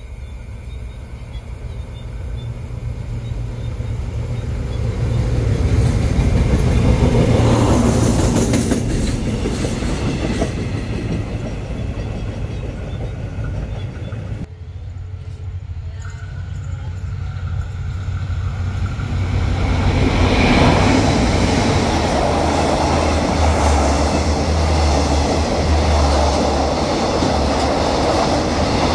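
A passenger train running past on the rails, swelling about seven seconds in and then fading; after an abrupt cut, coaches of a second train roll past a station platform, with a steady low engine drone under the wheel noise.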